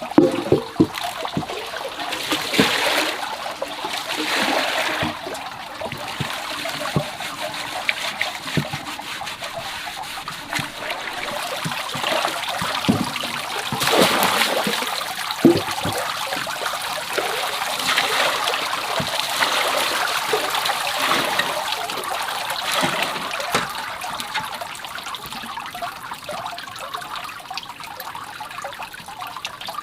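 Water trickling and splashing, swelling and fading unevenly, with scattered short knocks.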